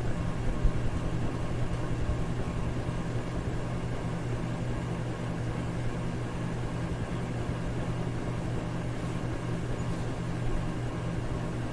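Electric fan running steadily: an even rush of moving air over a low motor hum, used as white noise for sleep.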